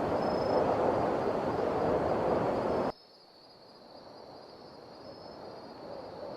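Blizzard wind blowing hard, cutting off abruptly about three seconds in, then much quieter wind slowly building.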